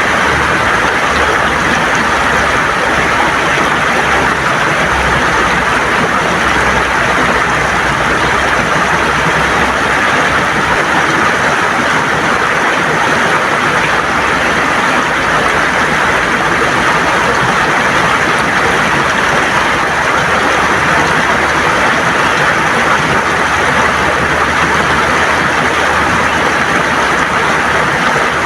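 River water gurgling and rushing over stones, a loud, steady, even sound that does not change.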